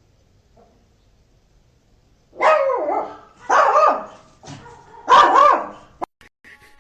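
A dog barking three times, each bark a drawn-out call about half a second long whose pitch rises and falls.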